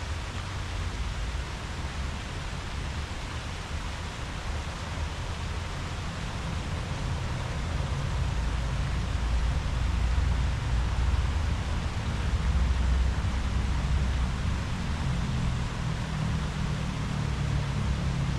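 Wind through tree leaves, a steady rustling hiss over a low rumble that swells a little about halfway through.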